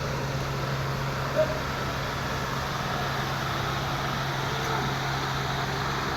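Steady low mechanical hum over a constant hiss of background noise, with one brief faint higher sound about one and a half seconds in.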